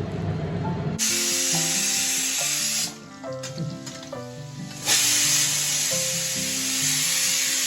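Prawn heads frying in hot oil, sizzling over background music; the sizzle drops out for about two seconds midway, then comes back strongly.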